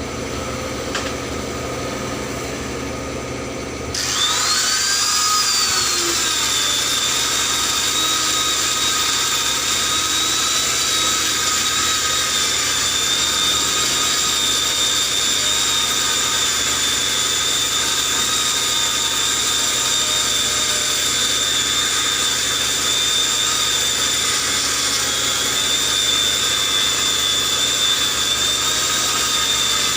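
High-speed power tool working the puncture site of a truck tyre for a mushroom-plug repair, starting suddenly about four seconds in with a brief rise in pitch, then running at a steady high whine. Before it starts, a low steady hum.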